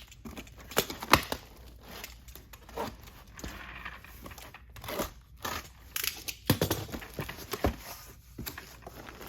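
Box of shrink-wrapped pillows being opened and handled: irregular crinkling of plastic wrap and tearing of packaging, with a few sharp knocks, the loudest about a second in and again around seven seconds.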